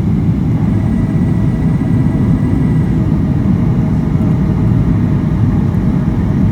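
Steady, loud low roar inside the passenger cabin of a Boeing 737-800: its CFM56-7B engines and airflow, with a few faint steady whines above the rumble.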